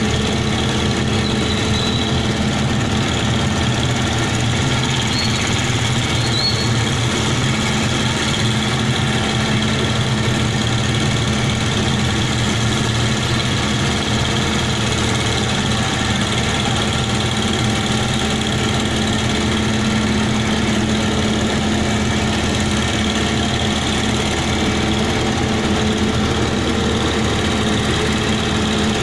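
A heavy engine running steadily at a constant speed, with an even hum and no change in pitch or loudness.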